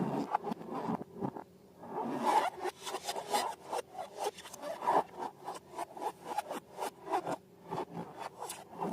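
Slime being worked by hand, squished and stretched, giving a run of sticky crackles and quick clicks with a few louder swells.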